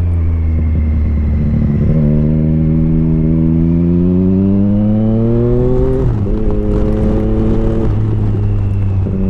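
Sport motorcycle engine under way, its pitch rising steadily for about four seconds as it accelerates in one gear. It drops sharply at an upshift about six seconds in, holds level, then falls away again about two seconds later.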